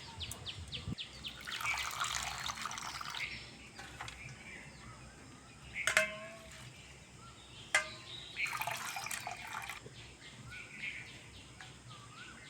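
Water splashing in two bursts, one near the start and one about two thirds of the way in, with a couple of sharp clicks between them. Birds chirp in the background.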